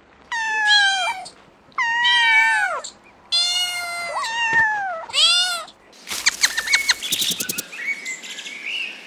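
A cat meowing four times, each meow falling in pitch. From about six seconds in, a quavering, rapidly pulsing bleat follows.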